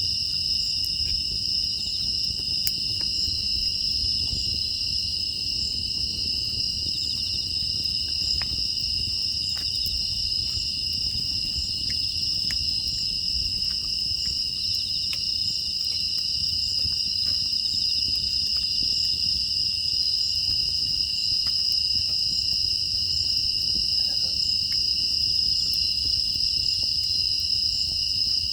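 Crickets and other grass insects chirring in a steady, unbroken chorus, over a low rumble with small scattered crackles from a burning wood fire.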